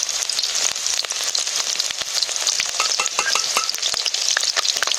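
Food frying in hot oil in a pan: a steady sizzle with many sharp crackling spatters.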